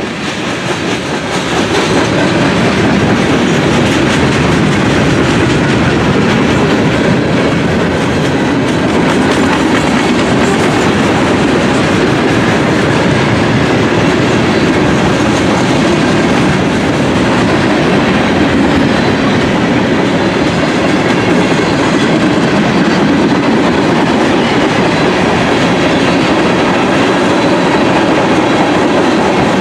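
A train's cars rolling past on the rails, with steady wheel-on-rail noise that grows louder over the first two seconds and then holds level.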